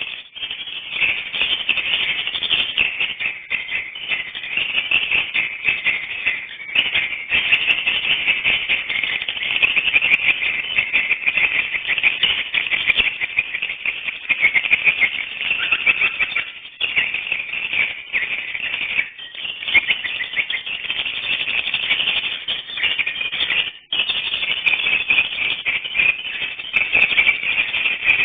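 Dense, continuous twittering of swiftlet calls, a rapid rattling chatter that runs on with only a few brief breaks, notably one about two-thirds of the way through.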